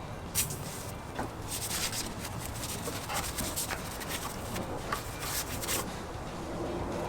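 A detailing brush scrubbing degreaser-soaked engine surfaces, in quick irregular bristle strokes.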